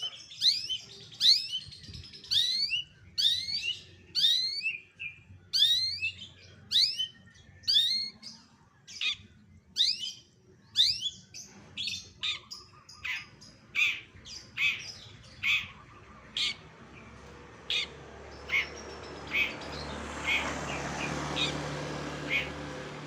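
Songbird calling in a long series of repeated downward-sweeping whistled notes, about one or two a second. About halfway through they give way to shorter, sharper chips. A hiss swells up under the chips near the end.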